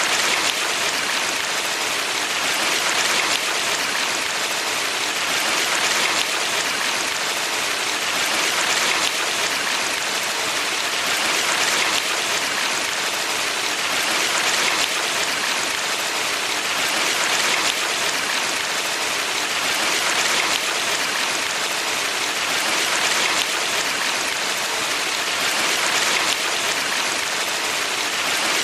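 Valley stream water rushing over rocks: a steady hiss that swells gently about every three seconds.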